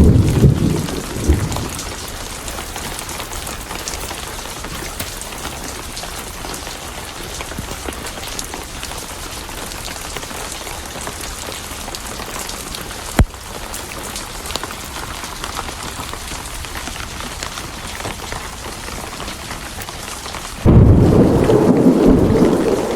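Steady rain hiss through a thunderstorm, a rumble of thunder dying away at the start and a loud new rumble breaking in suddenly near the end. A single sharp pop, like a log snapping in a fireplace, sounds a little past the middle.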